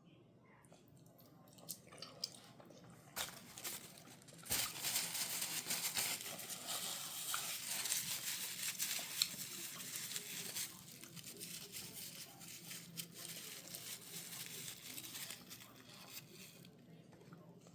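Crinkling, tearing noises close to the microphone, with many small clicks, loudest for about six seconds in the middle and softer after.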